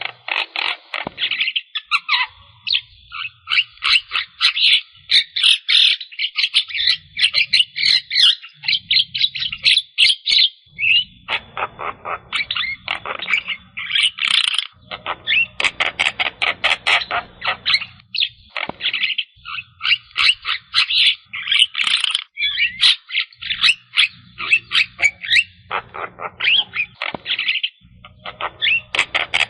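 Javan myna (jalak kebo) singing a long, busy chattering song of rapid, rasping notes in quick runs, with short pauses between the runs.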